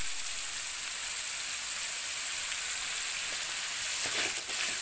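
Ground shallot-and-garlic spice paste sizzling steadily in hot oil in an aluminium wok, being fried until fragrant. A wooden spatula scrapes through it about four seconds in.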